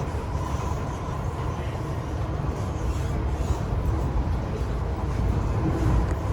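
MTR M-train electric multiple unit running on the track, heard on board as a steady low rumble with a faint steady whine.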